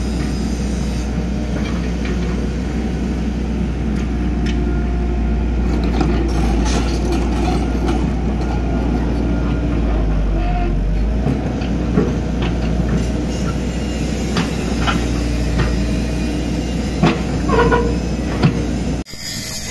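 Hydraulic excavator's diesel engine running steadily under load, with scattered knocks and clanks from the machine at work; the sound cuts off suddenly near the end.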